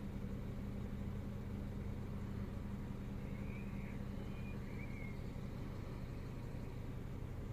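Peugeot RCZ's 1.6 THP turbocharged four-cylinder petrol engine idling steadily while warming up from a cold start, with no dip in the idle. A bird chirps faintly a few times midway.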